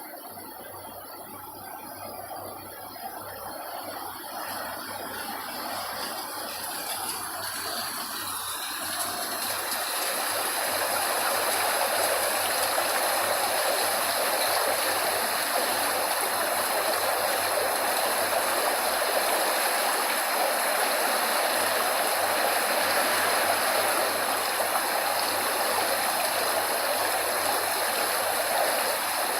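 Steady rush of running water, fading in over about the first ten seconds and then holding even.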